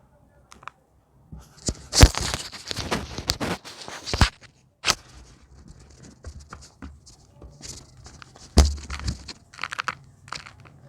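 Gym chalk being crushed and crumbled. A dense run of crackling crunches comes a second or so in, then a single sharp snap, scattered crackles and one loud crunch near the end.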